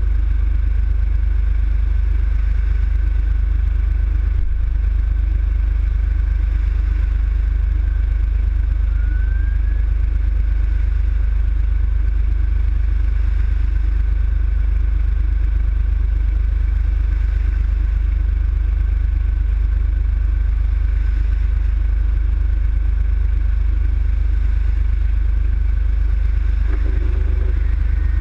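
A road vehicle driving at a steady speed: a constant low engine and road rumble, with no siren.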